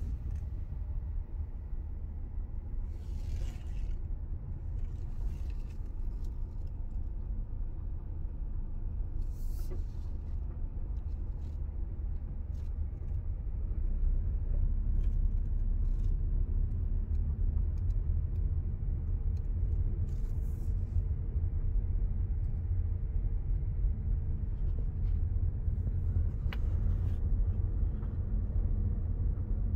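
Wind buffeting the microphone: a steady low rumble that gets louder about fourteen seconds in.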